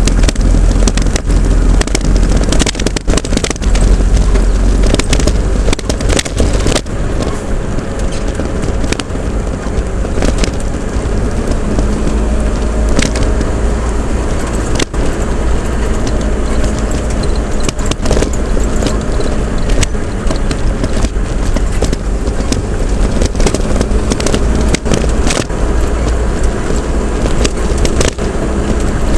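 Vehicle driving on a road: a loud, steady low rumble of engine and road noise, with frequent clicks and knocks from bumps and rattles.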